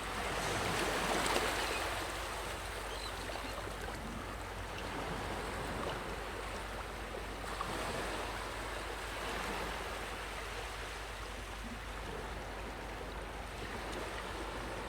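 Sea waves washing onto the shore, a louder surge of surf in the first two seconds and then a gentler, steady wash with softer swells.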